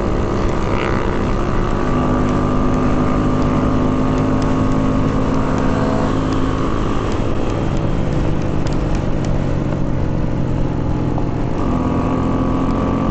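Several small mini-motorcycle engines running together at a steady pitch, each holding its own note, with the engine notes shifting as riders change speed about halfway through and again near the end.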